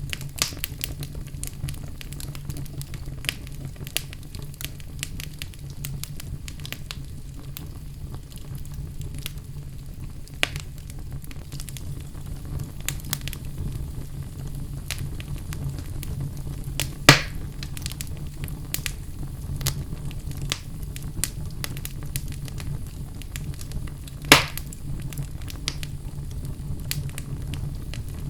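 Wood fire in a fireplace crackling: a steady low rumble of flame under many small snaps, with two louder pops in the second half.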